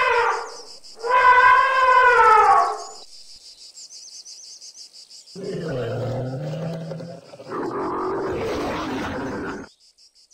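An elephant trumpeting: one long, loud blare that falls in pitch at its end. After a pause, a dromedary camel calling twice: a low, pitched bellow, then a rougher, noisier one.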